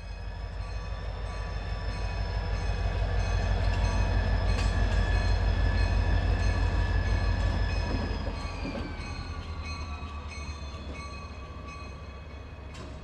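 Diesel freight locomotive passing by, its engine throbbing low under a steady whine. It grows louder, then about eight seconds in the whine drops in pitch and it fades. A sharp click near the end.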